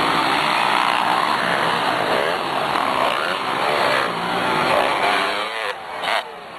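Several motocross motorcycles' engines revving on the track, their pitch rising and falling as the riders work the throttle. The sound drops away briefly near the end.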